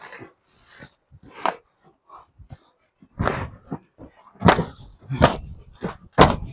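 A dog making short, irregular noisy sounds, about seven of them, the loudest near the middle and near the end.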